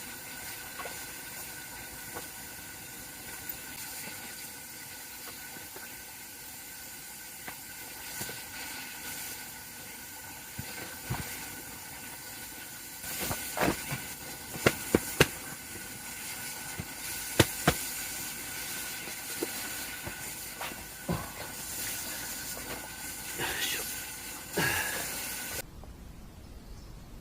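Wood campfire burning with a steady hiss and scattered crackles, and several sharp pops bunched together around the middle.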